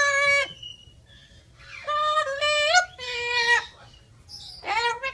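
Parrot making four short, high-pitched voice-like calls, squeaky and unclear like mimicked speech, with short pauses between them.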